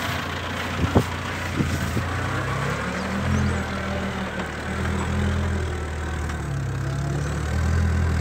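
Land Rover Series I's four-cylinder engine pulling the truck up a rutted dirt bank, its pitch rising and falling a few times with the throttle. A sharp knock about a second in.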